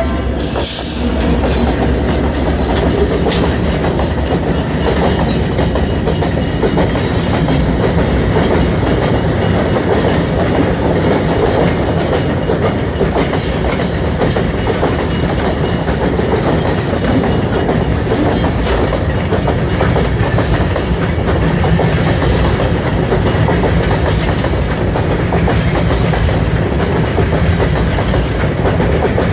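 Freight train rolling past at steady speed, its wheels clattering over the rail joints in a continuous clickety-clack.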